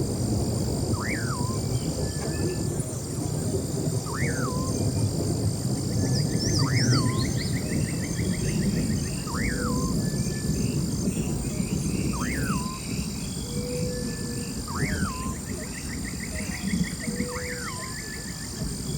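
Forest pond ambience. A bird gives a short, sharp whistled note that sweeps up and drops back, repeated about every two seconds, over steady high-pitched insect buzzing and a low rush of wind and water.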